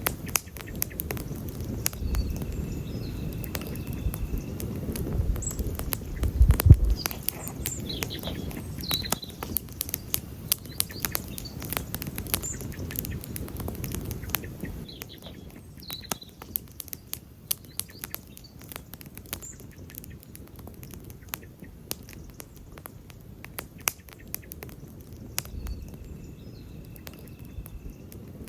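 Wood campfire crackling and popping steadily, with a low rumble from the flames and a heavier pop about six and a half seconds in. Faint, brief bird chirps come and go in the background.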